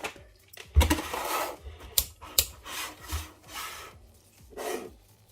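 Small parts being handled on a workbench: rubbing and scraping noises with a few sharp clicks in the first few seconds, quieter near the end.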